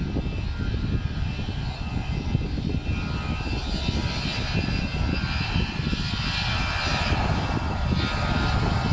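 Jet airliner's engines running as it passes: a steady low rumble with a hissing whine that grows stronger from about halfway through.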